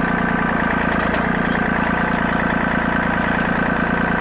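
Compact tractor engine running steadily, with an even, fast pulsing beat.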